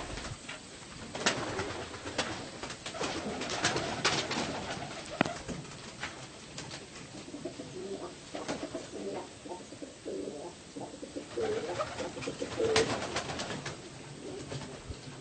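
Baghdadi pigeons cooing, with scattered sharp clicks and knocks among them.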